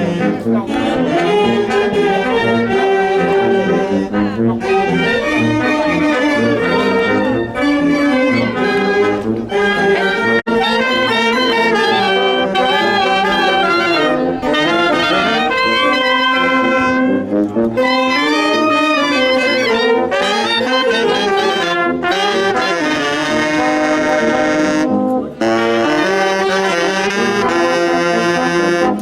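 Brass band playing a tune, with trombones, saxophones and trumpets.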